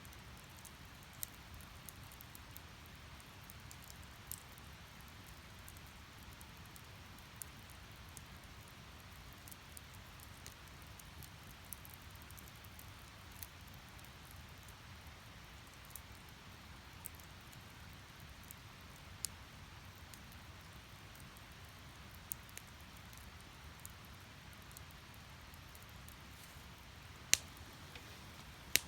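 Wood fire crackling: a faint steady hiss of flames with scattered sharp snaps from the burning logs every second or two, and two loud pops near the end.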